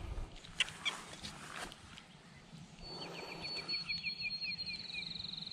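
A small bird singing: a high thin trilling note with a quick run of short lower chirps, starting about halfway through. A few faint clicks come before it.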